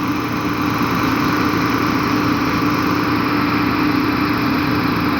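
An engine running steadily at a constant pitch, with a steady hum.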